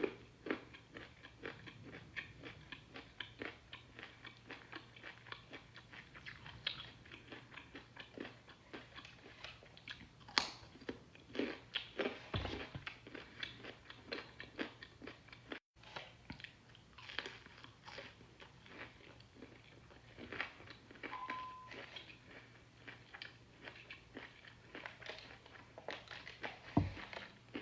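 Close-miked chewing of crunchy food: a steady run of quick crunches and wet mouth clicks, with louder bites now and then. The sound drops out for an instant a little past halfway.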